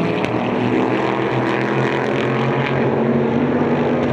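Super GT race car engines running, several at once, their overlapping tones holding fairly steady pitches.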